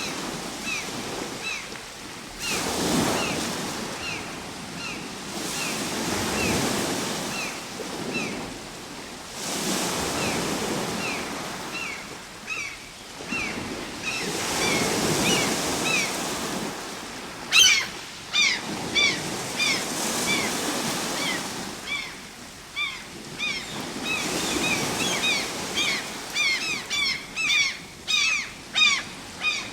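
Ocean waves washing in, the surf swelling and falling every few seconds. Over it a bird calls again and again in short, downward chirps, and from a little past halfway the chirps turn louder and come faster.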